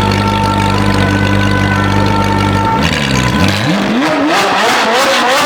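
Ferrari 458 Speciale's naturally aspirated V8 through a straight-piped exhaust, holding a steady note, then about three seconds in the pitch drops briefly and climbs steeply as the car accelerates hard, turning harsher and brighter.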